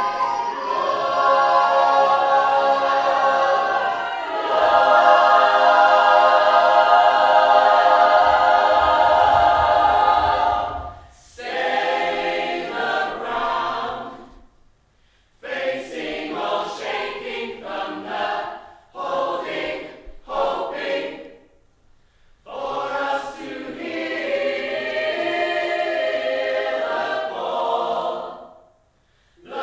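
Choir singing a cappella in harmony: long held chords for about ten seconds, then shorter phrases broken by brief pauses.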